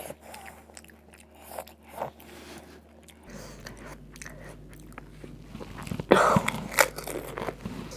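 Eating a crisp fuchka (pani puri) shell filled with spiced water: a faint crack as the shell is broken open near the start, then about six seconds in a bite into the whole fuchka, with loud crunching and chewing.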